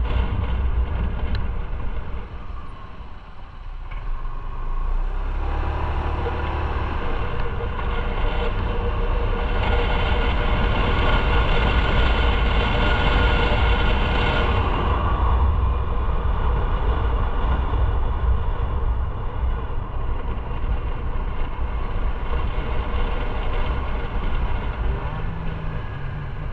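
Motorcycle engine running under way, with a heavy low rumble. It drops off about three seconds in, then picks up again and holds steady.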